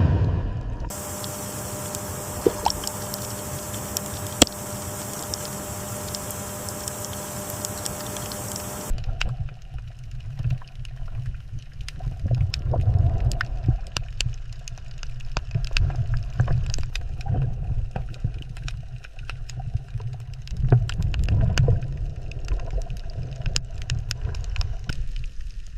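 Water sounds: low rumbling and gurgling with many small scattered clicks. This follows a stretch of about eight seconds of steady hiss with a faint steady hum, which cuts off suddenly.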